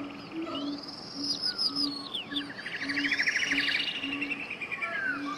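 Birds singing: descending whistles and fast trills, loudest about halfway through, over a low note repeating about twice a second.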